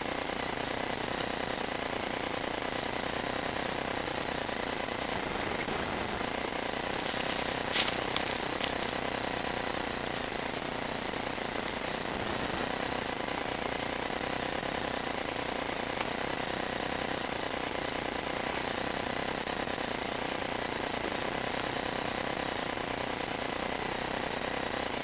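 Steady machine noise with a faint constant whine, with a few sharp clicks or knocks about eight seconds in.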